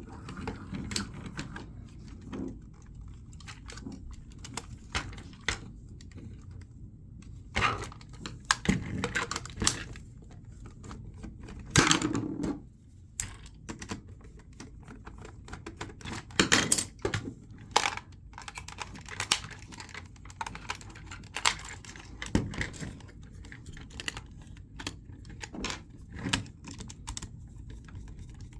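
Irregular clicks, snaps and knocks of hard plastic as a VTech Switch & Go Dinos velociraptor-helicopter toy is handled and its parts are moved, with a few louder knocks among them.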